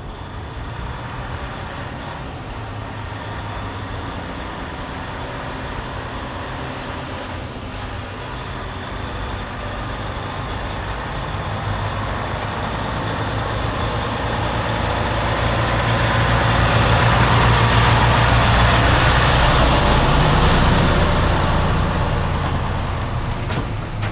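Semi truck's diesel engine running under way, with tyre and road noise in the cab; the engine grows louder about halfway through and eases off again near the end.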